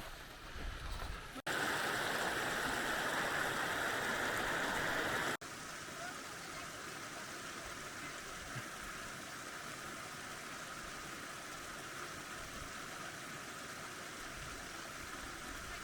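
Creek water running, a steady rushing noise. It is louder for a few seconds between two abrupt cuts near the start, then steadier and quieter.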